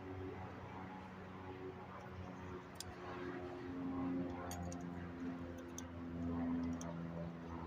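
A steady motor hum whose pitch wavers slightly, with a few faint clicks.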